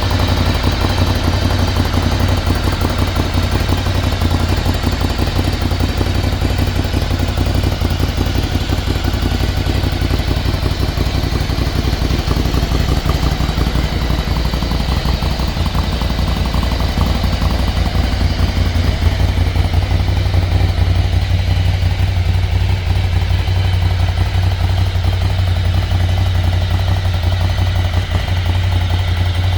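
Ducati Scrambler 800's air-cooled L-twin engine running at a steady idle.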